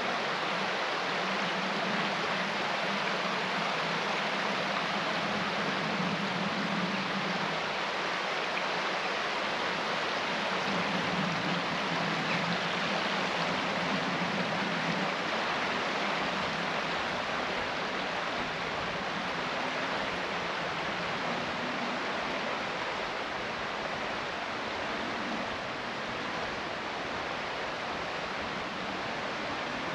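Steady rushing water, an even wash of noise, with a low hum that comes and goes in the first half.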